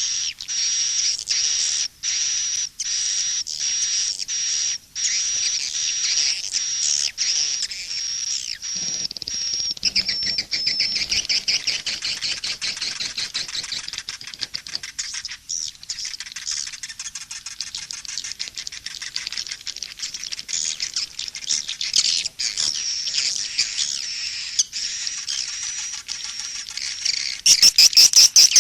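Recorded calls of edible-nest swiftlets, a dense stream of high twittering trills, with a louder burst of rapid clicking twitters near the end. It is a swiftlet lure-call mix, the kind played in swiftlet houses to draw birds in to roost and nest.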